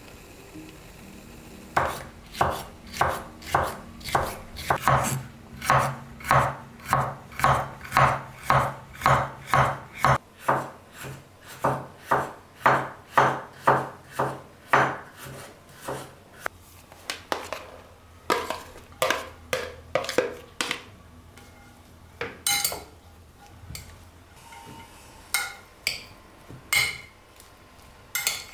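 Kitchen work on a wooden board: a steady run of even strokes, about two a second, then slower, scattered knocks near the end.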